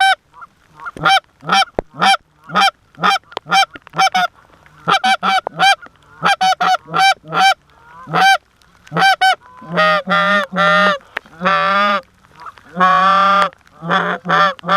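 Canada geese honking and clucking at close range: a quick string of short, sharp clucks, then longer drawn-out honks from about ten seconds in.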